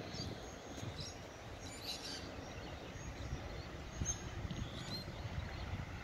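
Scattered faint, short bird chirps, a few times, over a low rumbling background noise.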